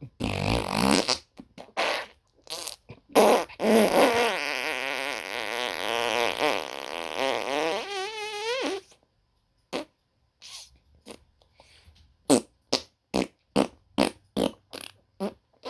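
A person making imitation fart noises: long buzzy blows that waver in pitch through the first nine seconds or so, then after a brief pause a quick run of short separate pops, about three a second.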